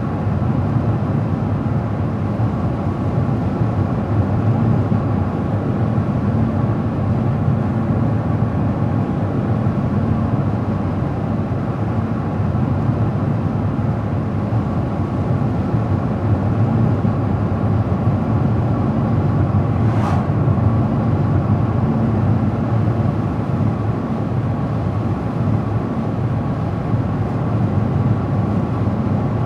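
A car driving at steady speed: a constant low rumble of engine and tyres on the road. There is a single faint tick about twenty seconds in.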